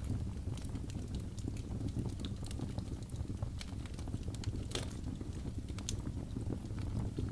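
Wood fire crackling in a fireplace: a steady low rumble of flame with irregular sharp pops and snaps, one louder snap about five seconds in.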